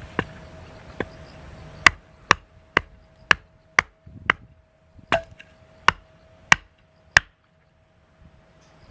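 Firewood being chopped: about a dozen sharp strikes on wood, roughly two a second at an uneven pace, stopping about seven seconds in.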